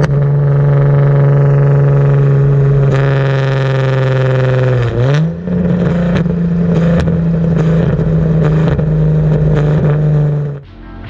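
Car exhaust through a Tomei cat-back system, a loud steady drone at constant engine speed. About halfway through the pitch dips briefly, then steps up to a higher steady drone, with a few short pops. It cuts off just before the end.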